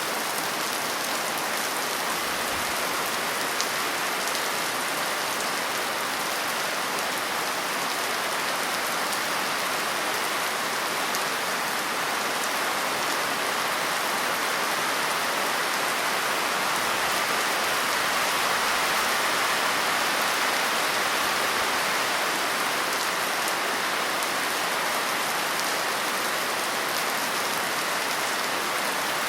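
Steady rain falling on a surface, a dense, even patter without thunder.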